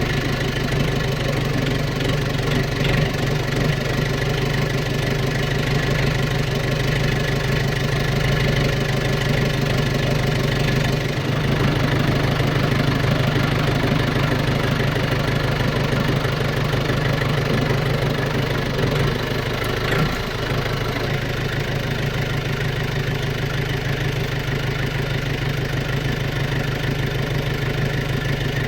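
An engine running steadily at an even speed, a low drone with small shifts in tone about eleven and twenty seconds in.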